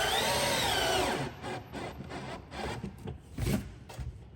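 Power drill running for about a second, its pitch rising and then falling as the trigger is worked, followed by scattered light knocks and clicks of parts being handled.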